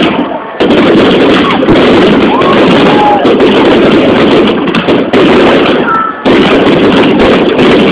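A fireworks display: a dense, continuous crackle of bursts with people's voices mixed in, very loud, with two brief dips, about half a second in and about six seconds in.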